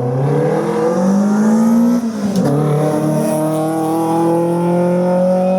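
Racing car engine under hard acceleration, its pitch climbing, with a quick upshift about two seconds in, then climbing again through the next gear.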